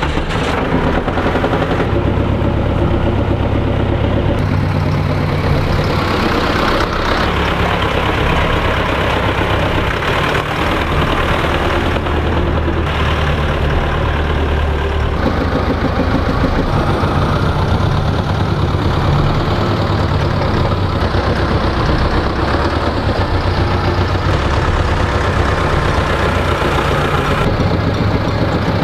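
Tractor engine running steadily after being started, a loud continuous low hum.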